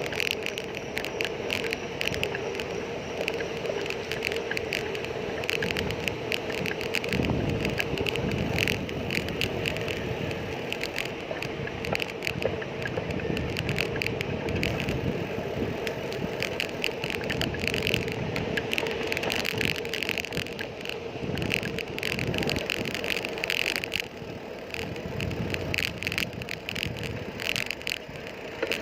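Bicycle being ridden, its parts rattling with many irregular clicks over steady road and tyre noise.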